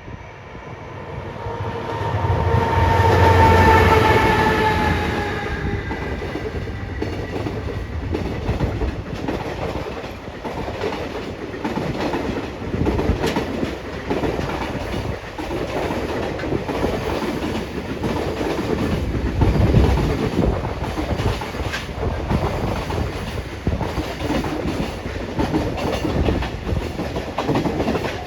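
A train running on the rails. In the first few seconds it draws near with a tone that falls slowly in pitch, then a steady rumble of wheels with repeated clickety-clack over the rail joints.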